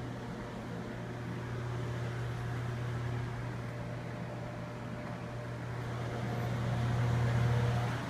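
Steady low mechanical hum of a running machine, growing a little louder toward the end.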